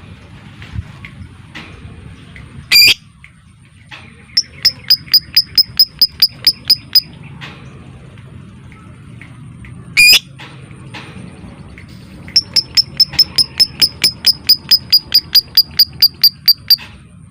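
Lovebird calling: a single sharp screech, a run of rapid repeated chirps at about five a second, a second screech, then a longer run of the same rapid chatter. This is the fast, evenly paced 'ngekek' chatter of a lovebird in full song.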